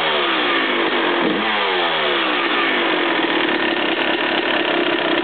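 Suzuki RM250 two-stroke single-cylinder motocross engine, blipped twice near the start and settling back down each time, then idling steadily. It carries an engine noise that the owner can't place, asking whether it is piston slap or rod knock.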